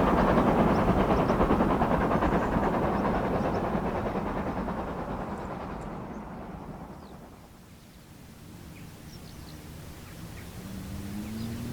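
A steam-hauled train running past and receding, its noise fading away over about eight seconds. Faint bird chirps follow in the quiet. Near the end a rising hum of another vehicle comes in.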